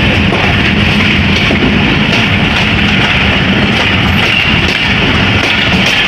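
Steady, loud running noise of a moving passenger train on the track.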